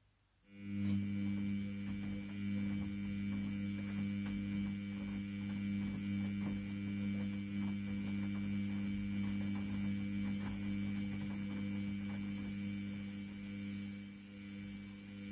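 Washing machine motor starting up about half a second in, then running with a steady electrical hum.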